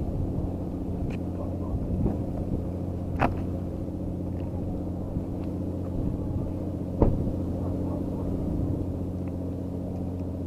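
An engine running steadily with a low hum, with a few sharp clicks or knocks about one, three and seven seconds in.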